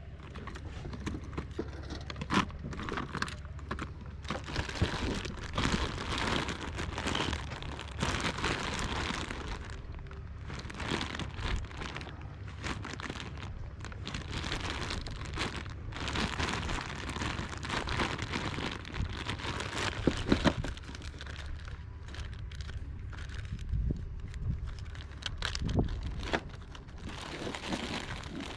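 Irregular crinkling and rustling, with scattered clicks and knocks, over a steady low hum.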